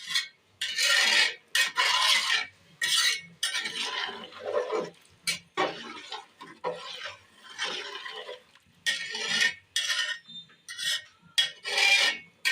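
A spoon stirring and scraping biryani rice and chicken around a cooking pot, in repeated scraping strokes about once a second.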